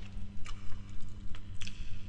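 Close-miked eating sounds of spaghetti being chewed: wet, squishy mouth sounds with a few sharp clicks, over a steady low hum.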